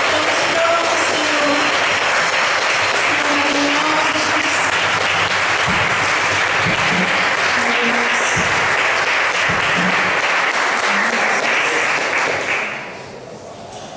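Congregation clapping and applauding, with the tail of the worship band's music and singing under it in the first few seconds. The applause dies away near the end.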